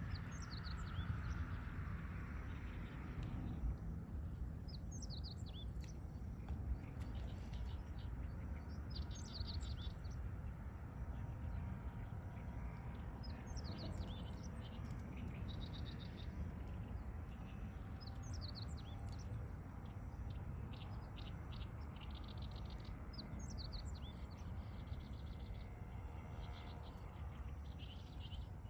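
Small birds singing at dawn, short high chirping phrases repeated every few seconds over a steady low rumble. A passing noise fades away in the first few seconds.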